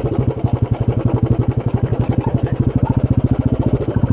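Motorcycle engine running steadily at low revs, with a rapid, even beat of firing pulses.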